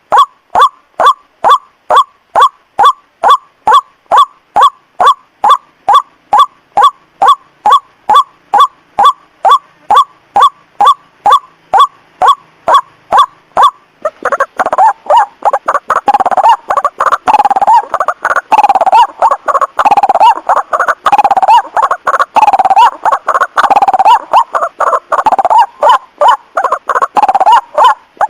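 White-breasted waterhen (ruak-ruak) calls played as a bird-lure recording: short notes repeated evenly about two a second, changing about halfway to a denser run of harsh, overlapping croaking calls.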